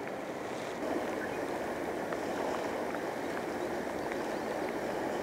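Steady rush of river current flowing, with a few faint ticks over it.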